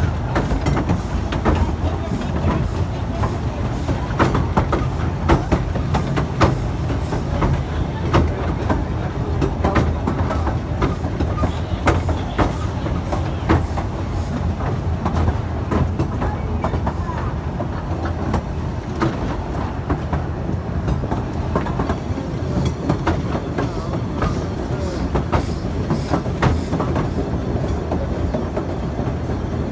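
Efteling theme-park train running along its track: a steady low rumble with frequent irregular clicks and knocks from the wheels and cars.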